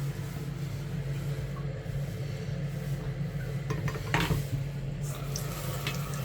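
A steady low hum with a few light knocks and clatters of parts being handled, the loudest about four seconds in, as a clogged boiler condensate pipe is worked on.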